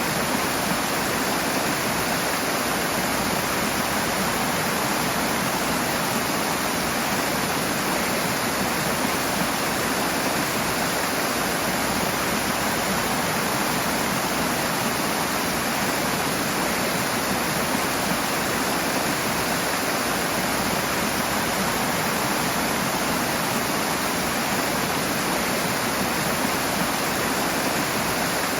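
Rushing water: a fast stream or small waterfall pouring in a steady, unbroken rush.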